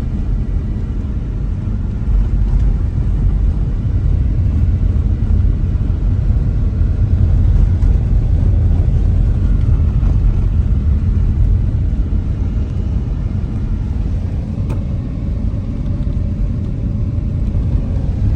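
Steady low rumble of a car driving along a road: engine and tyre noise from the moving vehicle.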